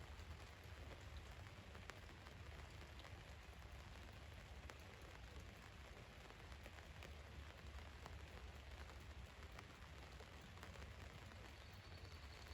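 Rain on a van's roof: a faint, steady patter with scattered individual drop ticks over a low rumble.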